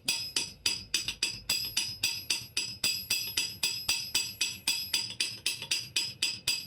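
Rapid, even hammer blows on metal, about four to five a second, each ringing with a high metallic tone.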